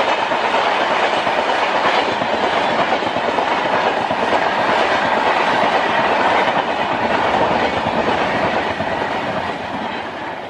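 Express train coaches rolling past at speed: a steady rumble and clatter of steel wheels on the rails. It fades over the last couple of seconds as the end of the train goes by.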